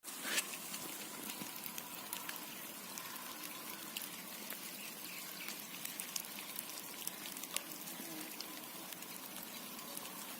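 Rain falling steadily, a hiss of rain with many sharp drip and raindrop ticks scattered irregularly throughout.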